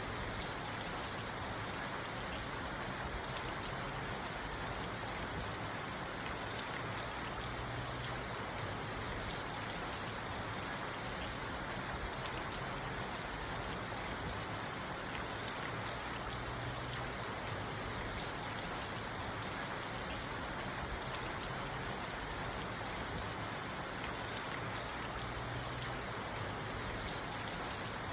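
Steady rain falling on a parked car, heard from inside the cabin. A faint low sound swells and fades about every eight seconds.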